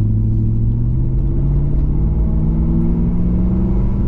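1998 Pontiac Firebird Formula WS6's LS1 V8 accelerating, its pitch rising steadily, heard through a single muffler-delete exhaust that still has its catalytic converters.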